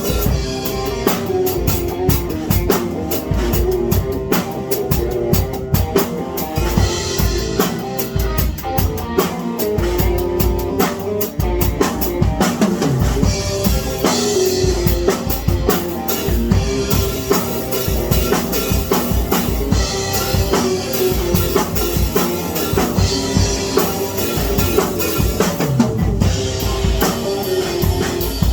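Music driven by a drum kit playing a busy, steady beat of bass drum and snare, over sustained pitched instrument tones.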